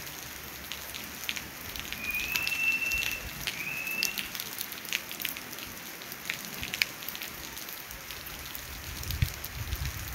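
Steady rain falling on a wet paved street and puddles: an even hiss with many small drop ticks. A thin, high whistling tone sounds twice, about two to four seconds in.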